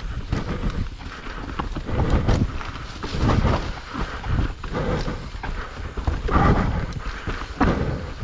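Mountain bike clattering and rattling over roots and rocks on a wet trail, with irregular knocks and tyre noise that swell roughly once a second.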